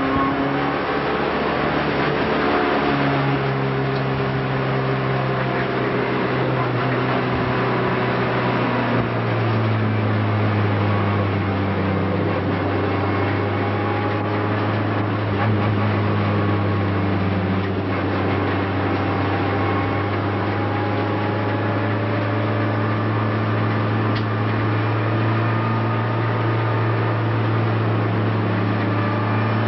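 A Renault Clio race car's engine heard from inside the cockpit, a steady drone at fairly constant revs whose pitch drifts only slowly up and down.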